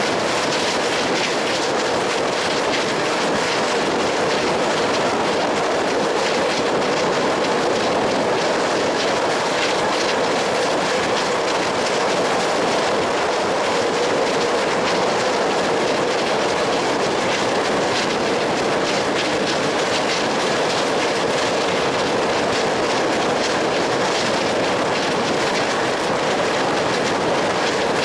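Train running along the track: a steady rolling noise with a running hum and scattered clicks of the wheels over the rails.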